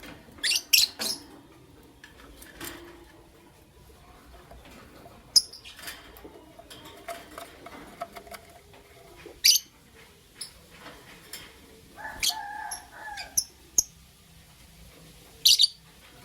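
Lovebirds giving short, sharp, high-pitched chirps every few seconds, several in quick succession at the start, with a brief lower chattering call about twelve seconds in.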